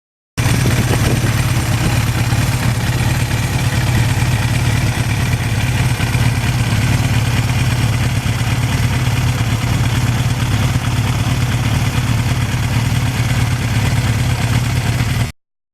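Suzuki GS1100E's air-cooled inline-four engine running at a steady pitch, with a hiss of noise above it. It cuts in abruptly and cuts off abruptly.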